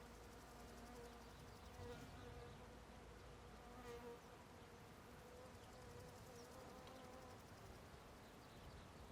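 Faint buzzing of a flying insect, its hum wavering in pitch and loudness as it moves about, then fading away near the end.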